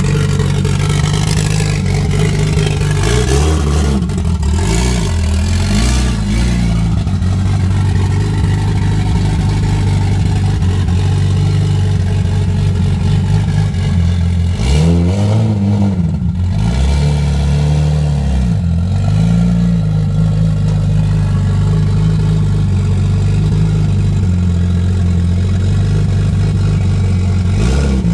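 Vehicle engine running steadily at low revs, its pitch rising and falling several times as it is worked on and off the throttle.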